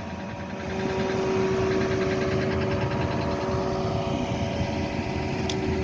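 A motor vehicle's engine running steadily with a held hum, growing louder about a second in. A single sharp click near the end.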